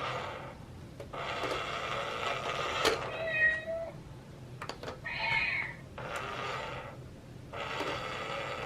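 Cat meowing: a few short meows between longer stretches of rough, noisy sound.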